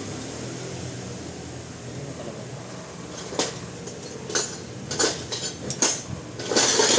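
A steady low hum, then from about three seconds in a run of sharp metallic clinks and knocks, as of steel tools or parts being handled and set down, growing louder and more frequent near the end.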